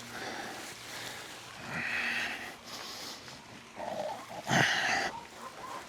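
Goats and sheep bleating: several separate calls, one at about two seconds and a louder pair near the end.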